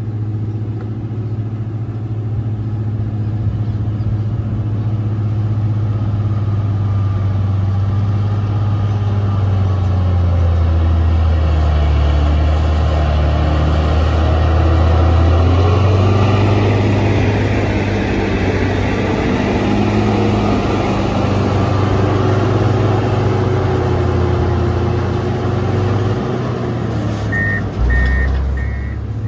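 Road grader's diesel engine running steadily, its pitch rising and falling as the revs change, with three short reversing beeps near the end.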